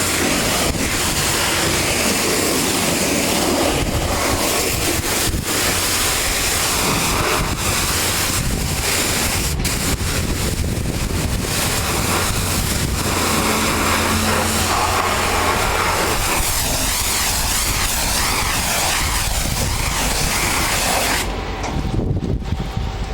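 Pressure washer spraying, a steady loud hiss of water. Near the end the spray cuts off, leaving a lower machine hum.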